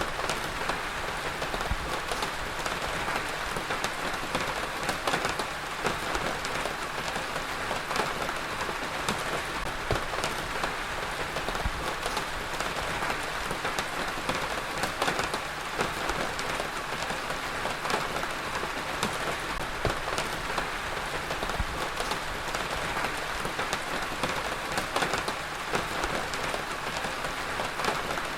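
Heavy rain falling steadily on a surface, a dense even hiss with many close, distinct drop impacts.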